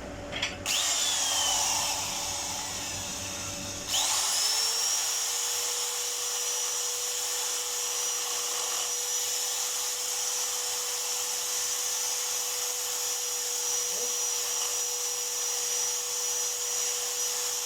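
A small high-speed motor whining: it starts up about half a second in, spins up again about four seconds in, and runs at a steady pitch with a high hiss until it starts to wind down at the very end.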